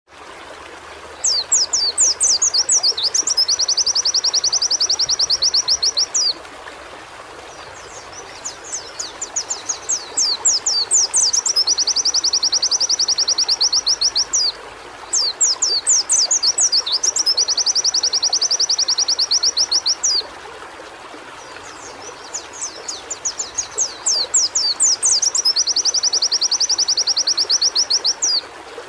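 A white-eye (pleci) singing in bouts of several quick sweeping notes that run into a fast, high trill. Each bout lasts about five seconds, with pauses of a second or two between them, over a steady background hiss.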